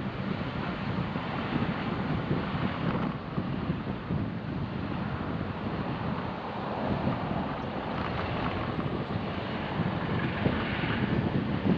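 Car driving along: steady road and wind noise.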